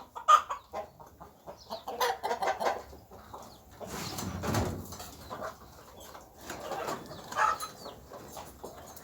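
Chickens clucking now and then, over many small clicks and taps, with a louder stretch of noise about four seconds in.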